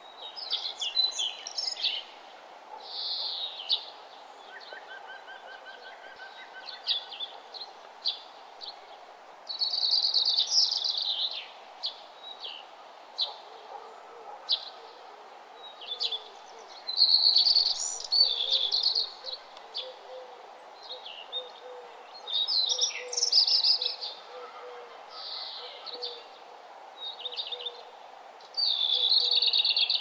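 Several songbirds singing, with bright, varied high-pitched phrases every second or two over a faint steady background hiss. A fainter, lower note repeats in the background through the second half.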